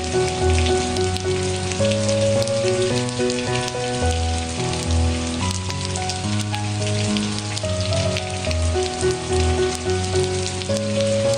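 Steady rain with a dense patter, under soft music of held notes that change every second or so.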